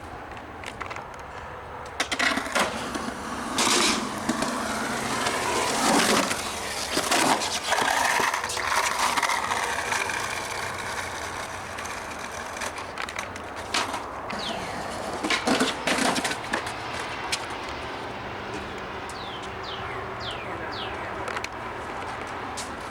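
Skateboard wheels rolling, with a string of sharp board clacks and landings: a cluster in the first eight seconds and two more about two-thirds of the way through.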